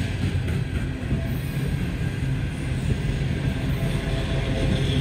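Freight train rolling past, a steady low rumble of cars and wheels on the rails.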